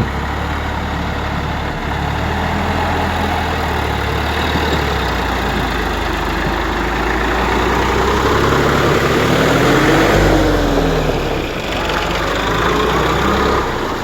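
Tractor engine running steadily as it tills a field. About ten seconds in, the engine note rises and falls again, getting loudest at the peak.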